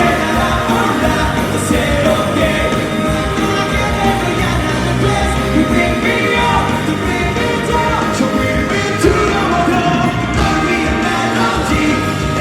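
Live rock band music with a singing voice over it.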